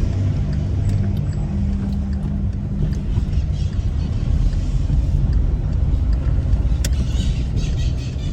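A car driving, with a steady low rumble of engine and road noise and a steady hum for the first few seconds.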